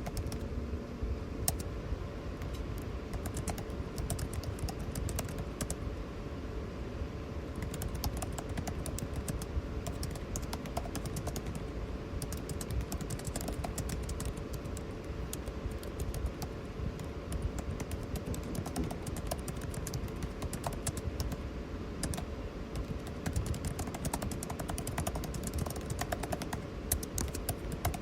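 Computer keyboard typing in irregular runs of key clicks over the steady hum of air conditioning.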